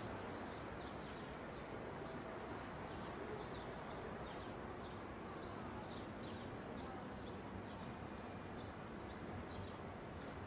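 Small birds chirping again and again in short, high, falling notes over a steady, faint street background noise.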